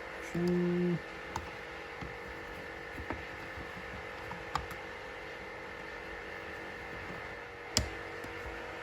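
Light clicks and taps of metal tools and parts being handled on a workbench over a steady background hum, with a short buzzing tone lasting under a second near the start and a sharper knock near the end.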